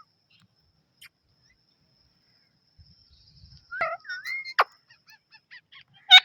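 Pet parrot calling. After a few quiet seconds there is a short whistled call about four seconds in, then a loud, harsh squawk that falls in pitch near the end.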